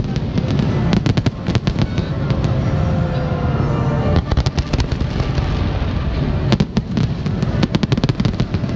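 Aerial firework shells bursting in a display: rapid bangs and crackle over a continuous low rumble. The reports come in dense clusters, about a second in, around four seconds in, and again from about six and a half to eight and a half seconds.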